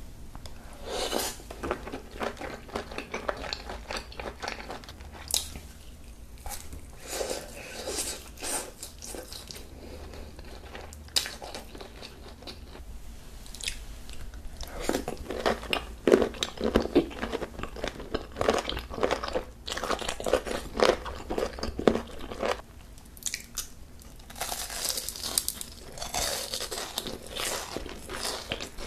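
Close-miked eating of seafood: irregular biting and chewing with wet mouth clicks and crunches, growing busier in the second half.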